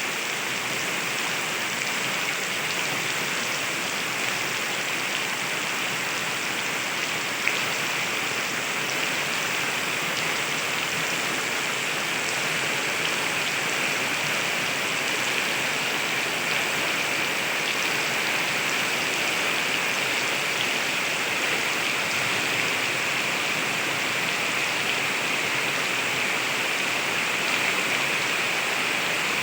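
Heavy rain falling in a steady, dense hiss that does not let up, with one sharp tick about seven and a half seconds in.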